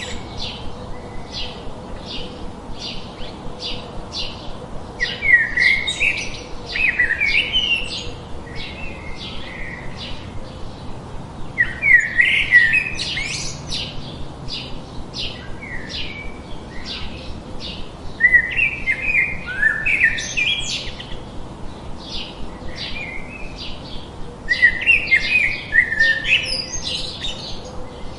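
Birds singing: a steady run of short high chirps at about two a second, broken four times by a louder, longer chirping phrase.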